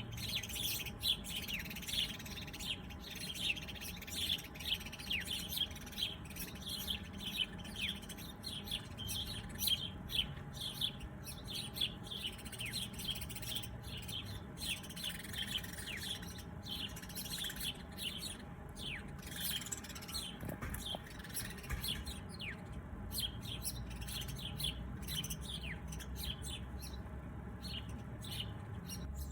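Several small birds chirping, a dense run of short, quickly falling chirps, thinning out somewhat in the second half.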